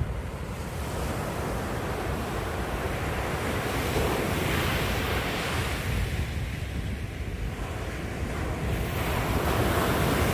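Ocean waves breaking and washing up a sandy beach, with wind buffeting the microphone. The surf swells louder about four seconds in and again near the end.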